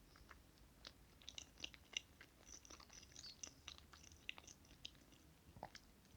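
Faint close-up chewing of soft chocolate cake: irregular small wet mouth clicks and smacks, with a slightly sharper click about two seconds in.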